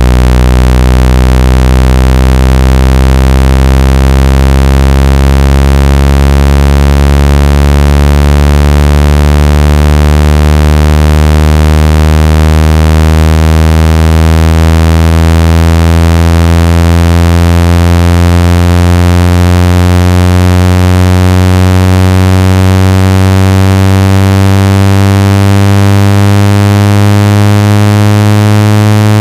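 Synthesized speaker water-ejection tone: a loud, buzzy low tone rich in overtones that slowly sweeps upward in pitch, played to vibrate water out of a wet phone speaker or earpiece.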